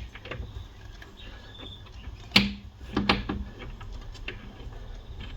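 Tube spanner turning the picture tube's mounting bolts: scattered metal clicks and scrapes, the sharpest about two and a half seconds in, with a couple more just after three seconds.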